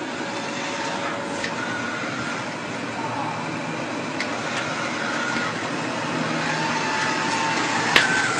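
Samsung VC-RM84V robot vacuum running: a steady whir of its suction motor and brushes with a faint whine that shifts in pitch. There are a few light clicks and a sharp click about eight seconds in.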